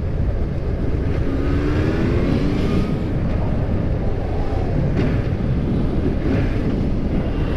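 Motorcycle's inline-four engine accelerating under a steady rush of wind and road noise, its pitch rising between about one and three seconds in.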